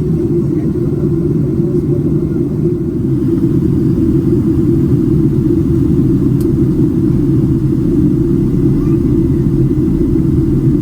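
Steady low rumble of engine and airflow noise inside the cabin of a Boeing 767-300ER, getting slightly louder about three seconds in.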